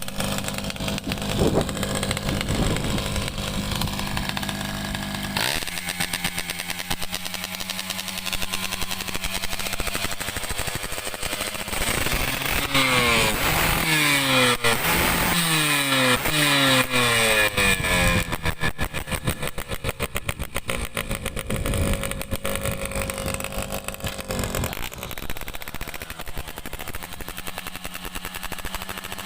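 Two-stroke Yamaha F1ZR motorcycle engine, bored to 116 cc, running steadily. Midway the throttle is blipped several times, so the engine note rises sharply and falls back again and again, while the bike is being tuned.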